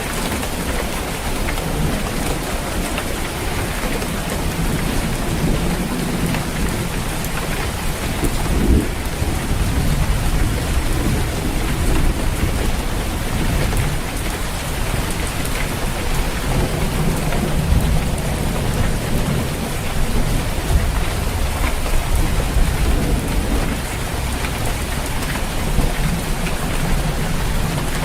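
Steady heavy rain drumming on a roof, with thunder rumbling low in the background, swelling a few times.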